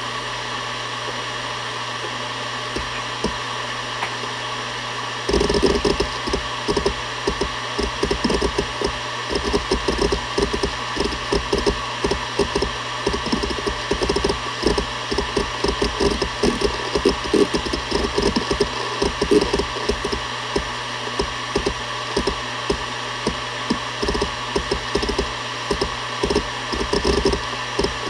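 Seagate Barracuda ES.2 ST31000340NS 7200 rpm hard drive spinning with a steady hum. About five seconds in, it starts seeking rapidly: the head actuator chatters in quick, irregular clicks and knocks that continue to the end.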